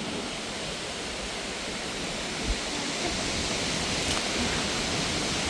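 Steady rush of mountain water pouring over rocks, swelling slightly in the second half.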